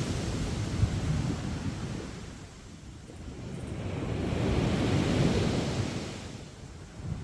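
Sea waves washing onto a sandy beach: a wash ebbs away, a short lull, then the next wave surges in, peaking about two-thirds of the way through, and fades again near the end.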